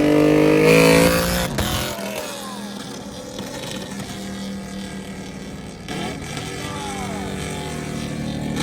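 Lexus V8 exhaust revving up hard over the first second and a half, then lifting off and settling into a lower steady drone, with another brief rise and fall in pitch about six seconds in.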